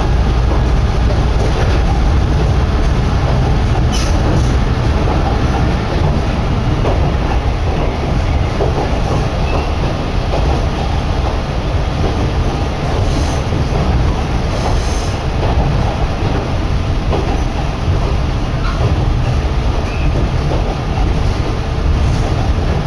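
Kominato Railway diesel railcar running along the line, a steady loud rumble of wheels on rails heard at an open window, with a few short sharper metallic sounds about 4 seconds in and again midway.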